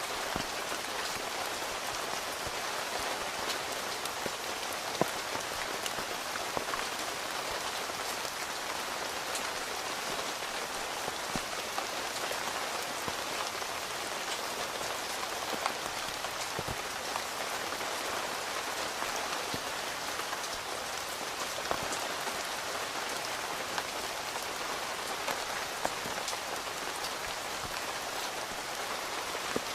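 Steady rain falling on a tent's fabric, heard from inside the tent, with single louder drops tapping now and then.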